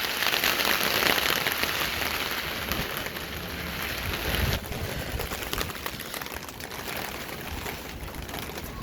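Heavy thunderstorm rain pouring down as a dense, steady hiss. It eases noticeably about four and a half seconds in as the downpour lets up.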